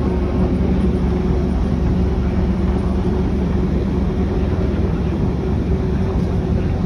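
Steady low engine drone of a ferry boat running, with a constant hum and deep rumble that holds the same pitch throughout.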